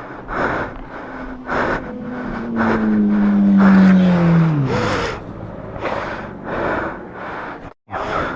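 Fast, heavy breathing close to the microphone, with a motor vehicle passing whose engine note holds and then falls away in pitch over a few seconds. The audio cuts out briefly near the end.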